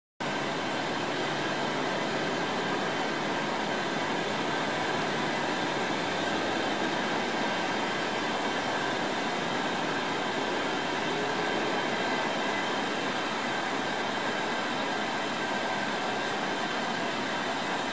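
Steady hiss and hum of a train, with a few high steady whining tones, holding level without rising or falling.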